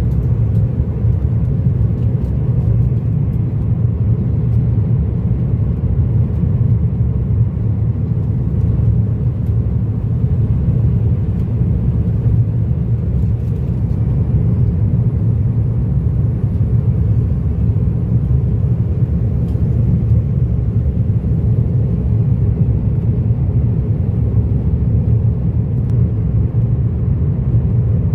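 Steady low rumble of a jet airliner's cabin noise, engines and airflow heard from inside the passenger cabin.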